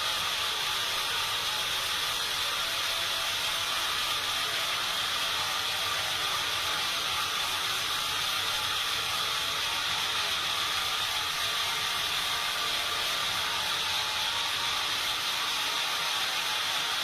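Sawmill machinery running with a steady, even hiss and no breaks or changes.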